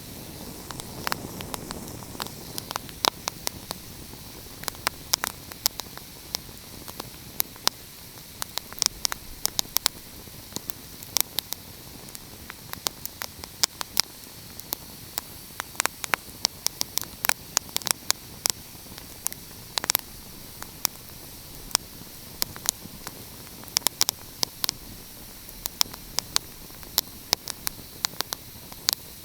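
Wood fire crackling, with irregular sharp snaps and a few louder pops over a steady hiss.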